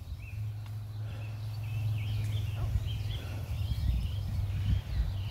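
Birds chirping in short, repeated squiggly notes over a steady low hum, with irregular low bumps from about three and a half seconds in.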